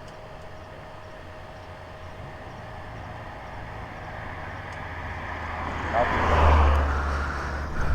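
Motorcycle engine running under way, steady at first, then growing louder to a peak about six to seven seconds in before easing a little.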